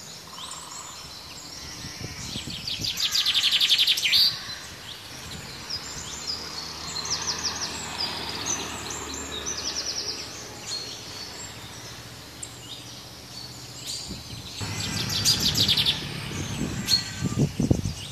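Several birds chirping and calling, with two loud, rapid trills, one a few seconds in and one near the end. A low rumble comes in under the birdsong near the end.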